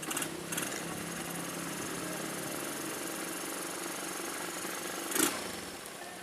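An engine running steadily under the hiss of light rain, with a sharp knock about five seconds in.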